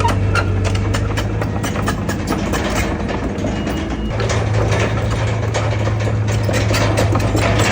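Heavy diesel engine of a bulldozer running steadily. Its hum eases off for a couple of seconds in the middle, then picks up again about four seconds in, under a steady stream of short metallic clicks and knocks.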